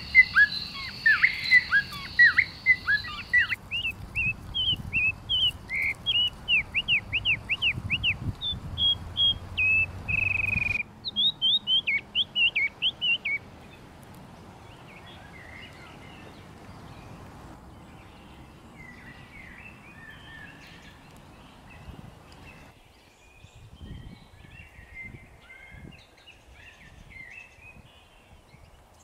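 Songbirds chirping and singing: runs of quick, repeated sweeping chirps, loud through the first half, then fainter and more scattered after about thirteen seconds.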